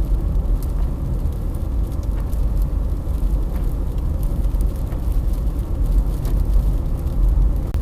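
Strong wind gusting against the microphone, a steady low rumble with a few faint ticks of debris or leaves striking.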